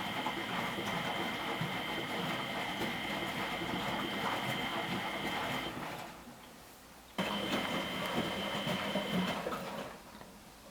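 Water rushing into a 1993 Miele Professional WS 5426 washing machine through its inlet valve, a steady hiss with a thin whistle. It dies away about six seconds in, snaps back on a second and a half later, and stops again near the end.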